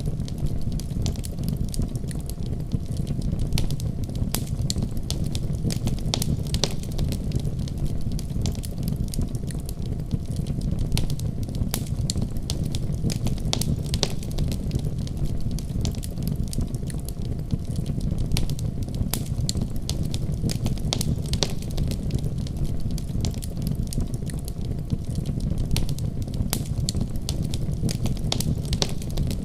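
Wood fire crackling in a fireplace: many sharp pops and snaps over a steady low rumble.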